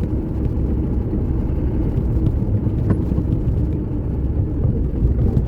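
A car running along a road: a steady low engine and road rumble with a few faint ticks and rattles.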